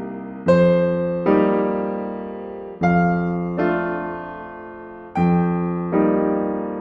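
Slow, gentle piano music: chords struck in pairs, each pair about a second and a half apart, every chord left to ring and fade before the next.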